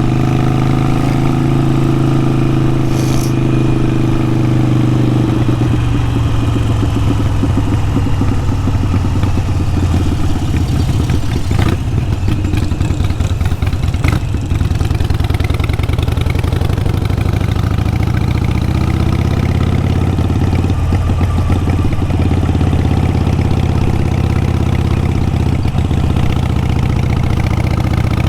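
Harley-Davidson Sportster 883 Iron's air-cooled V-twin running through a Vance & Hines aftermarket exhaust, its note shifting in pitch with the throttle about five seconds in and rising again near the end. A few brief clicks come in the middle.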